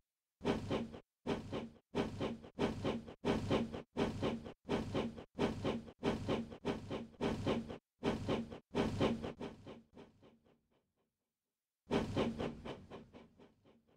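Toy steam-engine chuffing sound, a regular chuff about every 0.7 seconds, which thins out and dies away about ten seconds in. After a second of silence, one more chuff starts and fades near the end.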